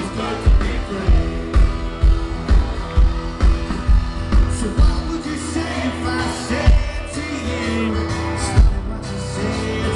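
Rock band playing live, with electric guitars, a singer's voice and a kick drum thumping about twice a second.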